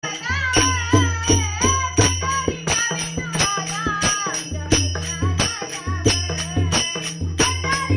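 Marathi devotional gajar song: a woman's voice sings a winding melody over steady percussion, about two strokes a second, with a jingling rattle and a repeating bass line.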